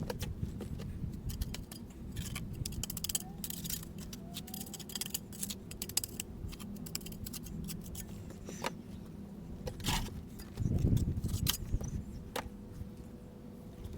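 Scattered sharp clinks and knocks of hand tools on stone during stone building, over a steady low rumble.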